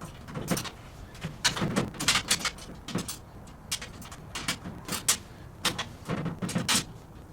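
Metal hardware and hand tools clinking and rattling in irregular bursts as caster bolts, washers and nuts are fitted and tightened on a steel tool cart.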